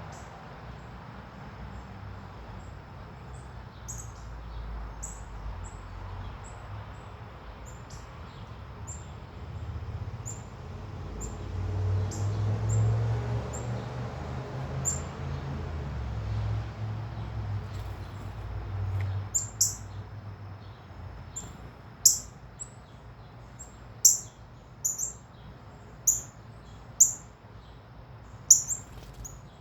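Small birds chirping in short, high, sharp notes, scattered at first and then louder, with several loud chirps a second or two apart near the end. A low rumble swells and fades in the middle.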